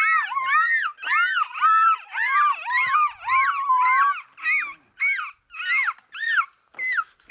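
A group of jays calling: many short rising-and-falling calls overlapping at first, then thinning to single calls about two a second in the second half.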